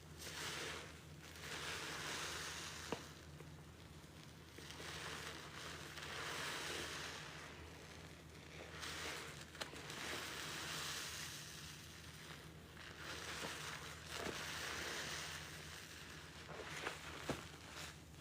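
A wet, sudsy sponge loaded with pine cleaning paste being squeezed over and over, each squeeze a hissing, squishing rush of soapy water running out for two to three seconds, with a few sharp wet clicks. A steady low hum runs underneath.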